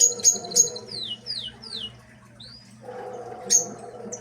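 Small cage birds chirping: three sharp chirps at the start, then three falling chirps in a row, and one more chirp near the end, over a steady low hum.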